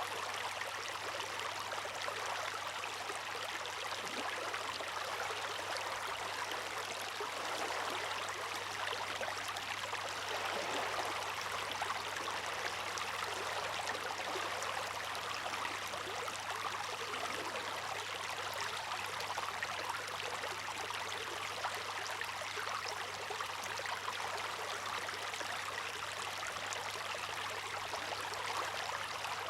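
Water rushing and splashing in a steady, even hiss with no rise and fall of breaking waves. A faint low hum runs underneath.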